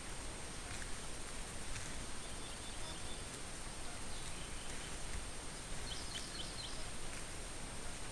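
Outdoor ambience: a steady hiss with a thin constant high whine, a few faint clicks, and a quick run of about four short high chirps about six seconds in.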